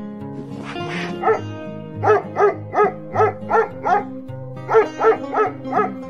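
An animal's short, sharp calls repeated about three a second, in a run of six and then a run of four, over steady background music.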